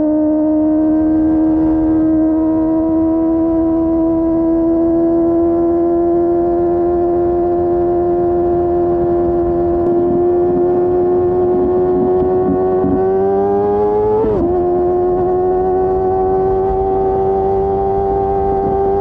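Kawasaki ZX-25R's inline-four engine with a Yoshimura R11 slip-on exhaust, running at high revs under way, its pitch creeping slowly upward. About fourteen seconds in the pitch wavers and dips briefly, then keeps rising.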